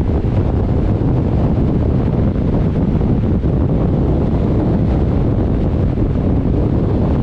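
Steady wind rushing over the microphone while riding a motorcycle at speed, heaviest in the low range, with no distinct engine note or separate events standing out.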